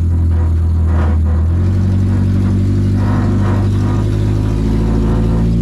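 Toyota Camry demolition derby car's engine running as the car is driven, its note shifting about a second and a half in.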